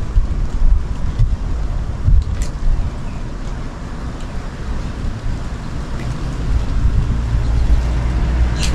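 Steady rain hiss over a loud low rumble, which grows louder from about six seconds in.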